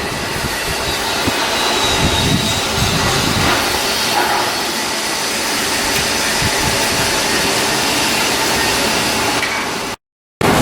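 A loud, steady hiss with irregular low knocks underneath. It breaks off for a moment near the end.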